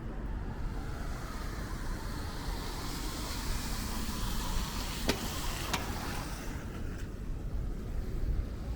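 A car passing on a rain-wet street: the hiss of its tyres on the wet road swells and then fades, over a steady low rumble. Two sharp clicks come about five seconds in.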